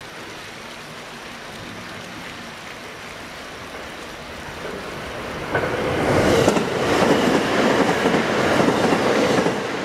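A JR West 521 series electric train passing close by at speed, its wheels clattering over the rails. It is faint at first, swells about four seconds in, and is loudest over the last four seconds.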